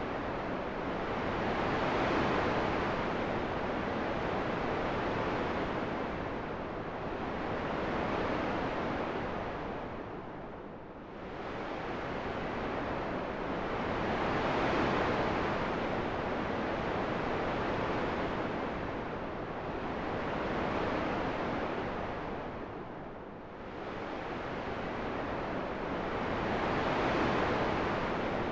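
Rushing wind, a steady hiss that swells and eases in slow gusts every few seconds, dropping twice into a brief lull.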